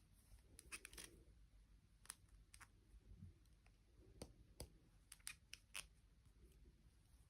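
Near silence broken by faint, irregular small clicks and taps, about a dozen of them, as of small objects being handled.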